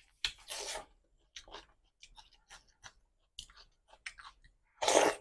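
A person chewing a mouthful of food close to the microphone: many short, irregular mouth noises, with two louder noisy bursts, one just after the start and one near the end.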